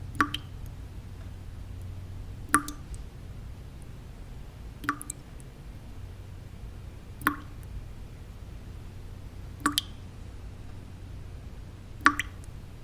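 Single water drops falling at an even pace, one plip about every two and a half seconds, six in all. Under them runs a steady low white-noise hum.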